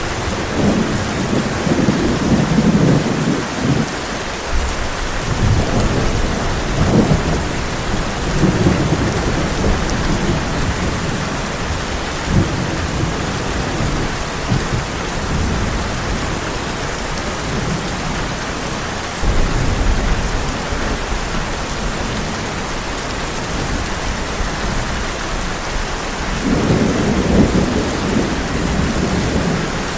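Heavy rain pouring steadily on a tin roof, with thunder rolling several times as low rumbles that swell and fade. The strongest rolls come near the start and again near the end.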